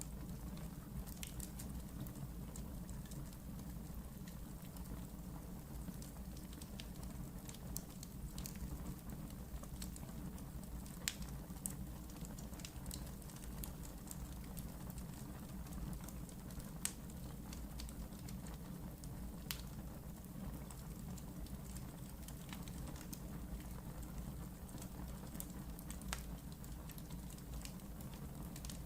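Wood fire burning in a fireplace: a steady low rumble of flames with frequent small crackles and occasional louder pops.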